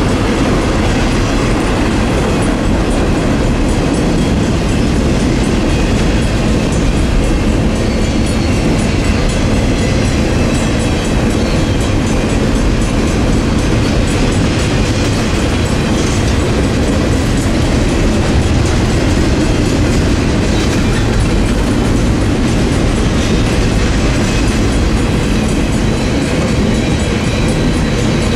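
BNSF double-stack intermodal freight train, its loaded container well cars rolling steadily past, with continuous wheel-on-rail noise.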